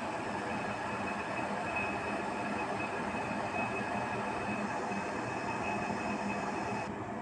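CityUP smart electric kettle heating water: a steady rushing hiss. A faint high whine within it stops near the end.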